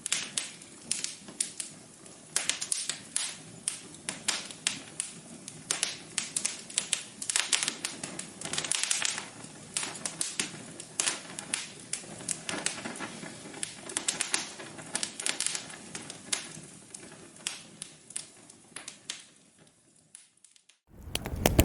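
Wood fire crackling in a fireplace: irregular sharp pops and snaps, several a second, over a faint hiss. The pops die away shortly before the end, then a louder, denser crackling starts abruptly.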